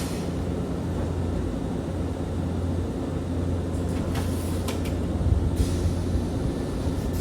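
Electric commuter train standing at a platform, its equipment giving a steady low hum, with a few faint clicks and a short hiss of air about five and a half seconds in.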